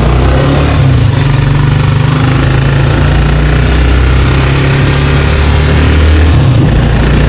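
A motor vehicle's engine running steadily, with a loud low rumble.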